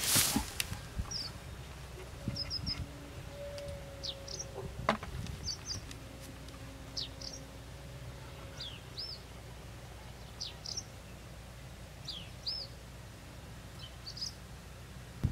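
Small birds calling, short high chirps and down-curving whistled notes repeated every second or so, over a low steady outdoor rumble with a few soft knocks.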